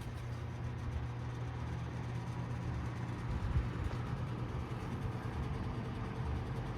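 Mid-to-late-1980s Sears box fan running steadily on its low setting: a constant low motor hum under an even rush of air from the blades.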